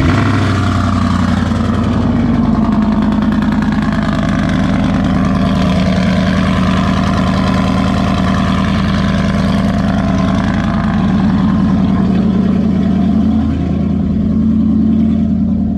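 Pickup truck engine just cranked up, running very loud through an exhaust with the catalytic converters cut out. It holds a steady idle, with a brief rise in pitch near the end.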